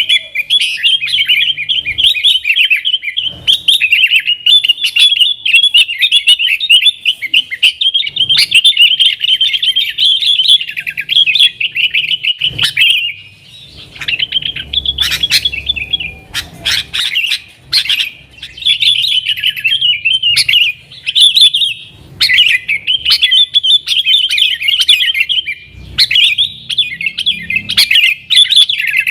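Yellow-vented bulbul (trucukan) singing a fast, dense, chattering 'nggaruda' song, almost continuous, with a few short breaks.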